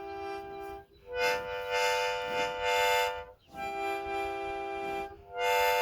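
Harmonica playing long held chords, alternating between two chords with short breaks between them.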